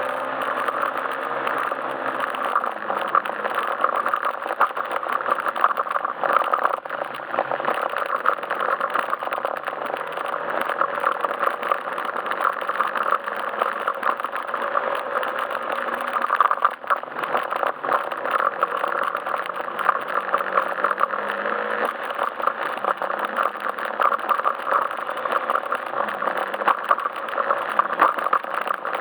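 Yamaha Majesty S scooter's 155 cc single-cylinder engine running under way, its pitch drifting up and down with the throttle, with many small clicks and rattles throughout.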